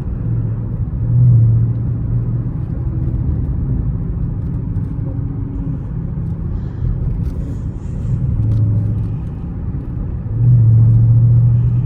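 Dodge Charger Scat Pack's 6.4-litre HEMI V8 running under way, a steady low exhaust drone. It swells briefly a couple of times, then gets louder and stays up from about ten seconds in as more throttle is given.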